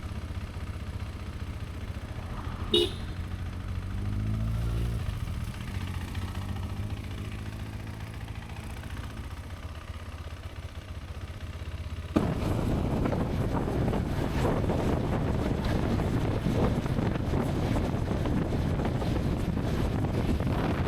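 Motorcycle engine running at a standstill, with a short horn toot about three seconds in and the engine rising briefly around four seconds. From about twelve seconds it switches suddenly to a steady rush of wind and engine noise from the motorcycle under way.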